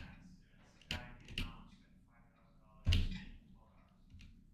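Indistinct, low-level speech in short fragments, with a few sharp taps or clicks.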